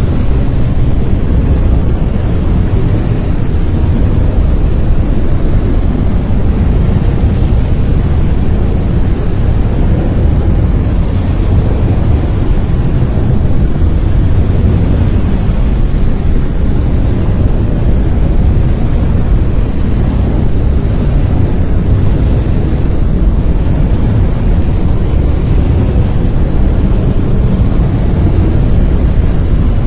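Brown noise: a steady, loud, deep rushing hiss with its weight in the bass and little treble, unchanging throughout.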